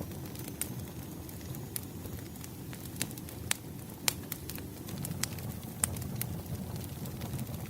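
Wood fire burning: a steady low rush of flames with irregular sharp crackles and pops from the burning logs, a few louder snaps about three and a half, four and six seconds in.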